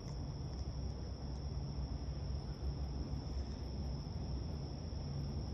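Insects trilling steadily at one high pitch, over a low, uneven rumble.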